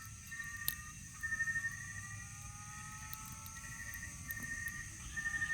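Evening insect chorus: a steady high-pitched drone of crickets or katydids, with repeated trilling calls starting and stopping, and one short click about a second in.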